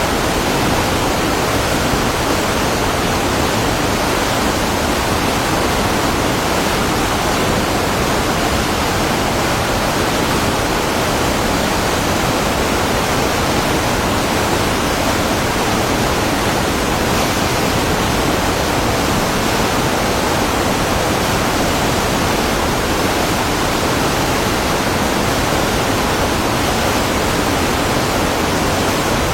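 Waterfall: a steady, even rush of falling water, loud and unbroken.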